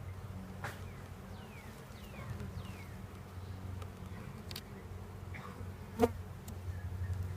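Honeybees buzzing around an open, worked hive: a steady low hum of many wings. A single sharp click about six seconds in.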